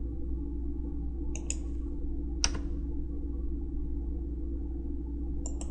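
Computer mouse clicks: a quick double click about a second and a half in, a single louder click about a second later, and another double click near the end, over a steady low hum.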